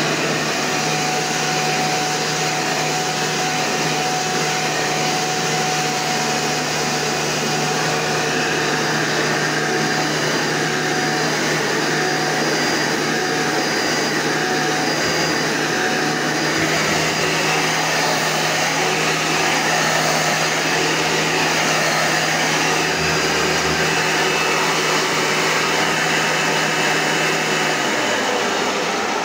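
Black-and-gray 12-amp commercial Hoover vacuum cleaner running steadily, a loud motor and fan whine. Near the end it is switched off and the motor winds down.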